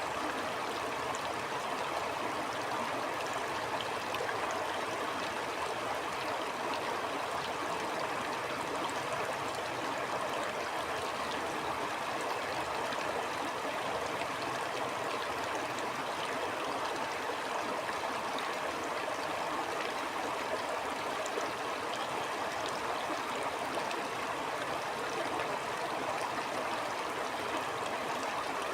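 Stream flowing steadily, an even rush of water with light gurgling and small splashes scattered through it.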